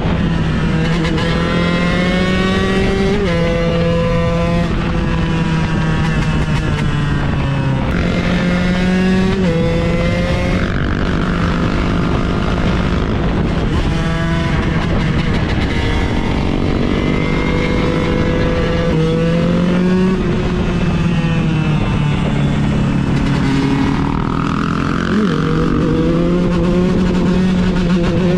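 KTM 125 EXC supermoto's single-cylinder two-stroke engine under way, its pitch climbing and dropping again and again as the rider accelerates and shifts through the gears.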